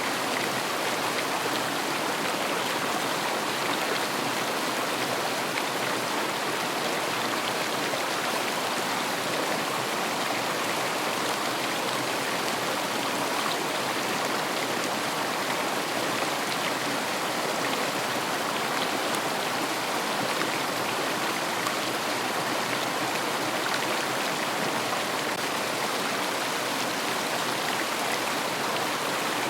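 River water flowing and rushing over stones, a steady, even wash of sound.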